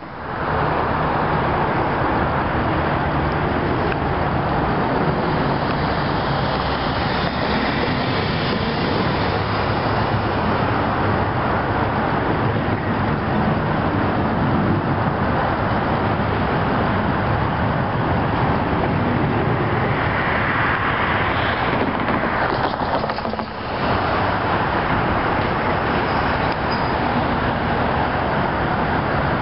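Steady rumble of an approaching CSX freight train's GE diesel locomotives, with a brief dip about two-thirds of the way through.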